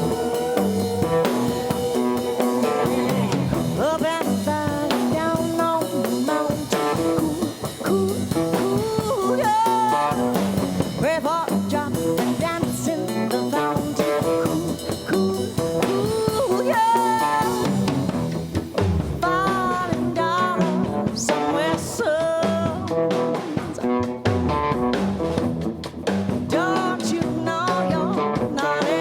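A blues band playing an instrumental passage: a guitar playing a lead line with bent notes over bass and a drum kit keeping a steady beat.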